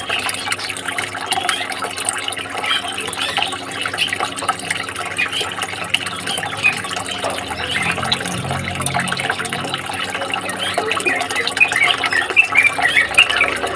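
Running water with small songbirds chirping over it; the chirps come thicker and louder near the end.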